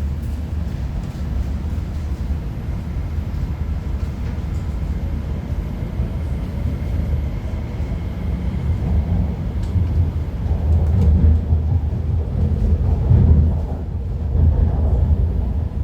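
MTR IKK-Train electric multiple unit running on the line, a steady low rumble of wheels on track and running gear. The rumble grows louder and more uneven about two-thirds of the way through.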